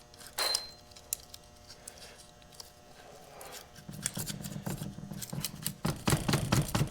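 Old paper gasket being scraped off the tractor's PTO housing, in quick repeated strokes. After a few scattered clicks, the scraping starts about four seconds in and grows faster and louder near the end.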